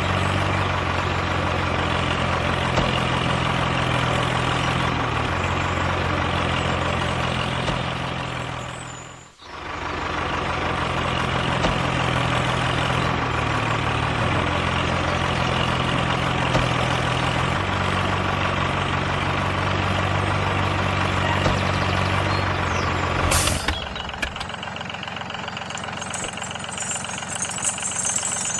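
Engine-like running with a steady low hum. It cuts out briefly about nine seconds in, then comes back, and about 23 seconds in it changes to a quieter, thinner running sound.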